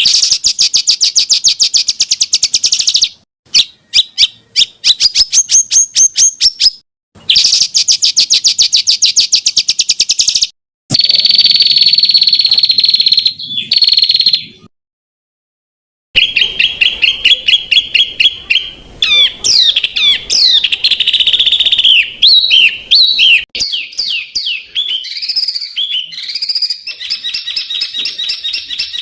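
Songbird song used as a masteran tutor track: fast trills of rapid-fire repeated notes in bursts of a few seconds, then varied whistled notes sliding up and down. The song cuts out completely for about a second and a half near the middle.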